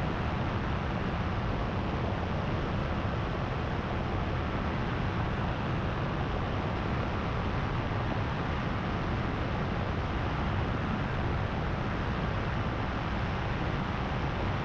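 Power2Fly paramotor's engine and propeller running steadily in cruise flight, a constant drone with no change in pitch.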